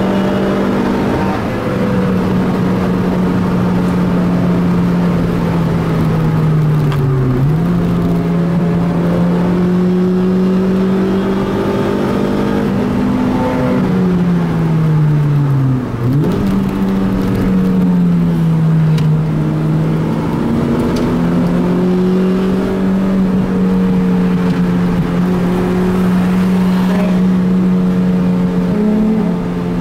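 Car engine heard from inside the cabin, held at high, fairly steady revs under hard driving. Twice, about seven and about sixteen seconds in, the revs sag and then snap back up.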